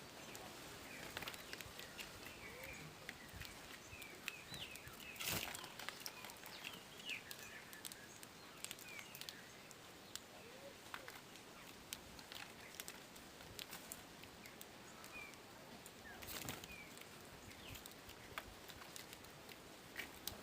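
Faint outdoor ambience with scattered short bird chirps and light clicks and rustles, and two louder brief rustles, one about five seconds in and one about sixteen seconds in.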